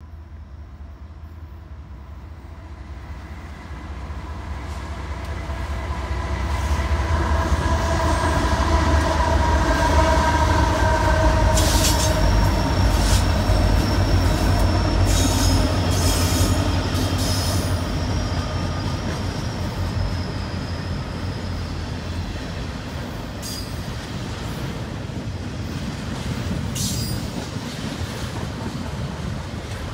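A Union Pacific freight train's lead diesel locomotives rumble past, growing loud over the first several seconds and loudest about ten seconds in. Double-stack container cars then roll by with a high wheel squeal and clicking wheels.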